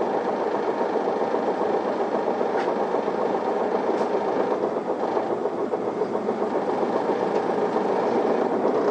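Isuzu Erga city bus heard from inside the cabin while driving: the diesel engine and road noise run steadily, getting a little louder near the end, with a couple of faint ticks from the interior.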